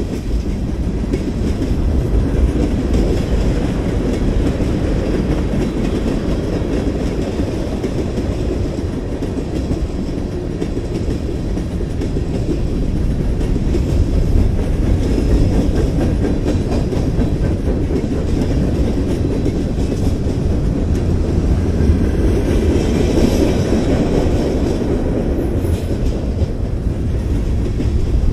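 BNSF freight train's tank cars and covered hopper cars rolling past close by: a steady rumble of steel wheels on the rails.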